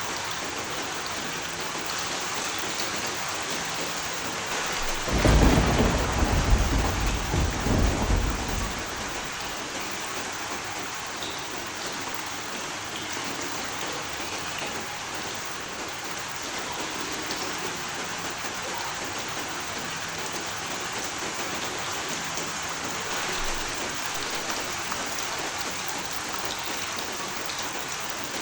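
Steady heavy rain falling, with a roll of thunder rumbling about five seconds in that dies away by about nine seconds.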